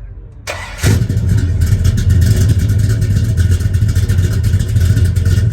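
A 1969 Dodge Coronet R/T's 440 V8 is cranked by the starter, catches within about a second, and settles into a loud, steady idle.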